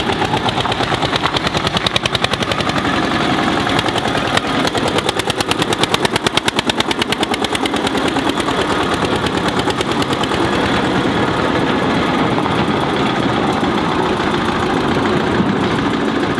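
Eicher 242 tractor's diesel engine running with a rapid, even chugging beat, getting louder through the first several seconds and then running steadily.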